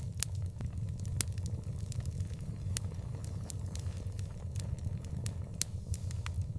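Wood fire crackling, with scattered sharp pops, a few a second, over a steady low rumble.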